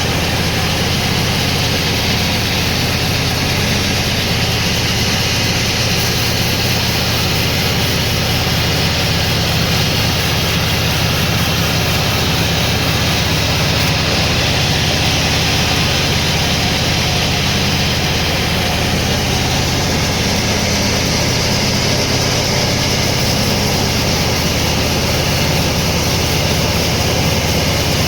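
Sawmill machinery running steadily: an even, loud mechanical din with a constant low hum and no breaks.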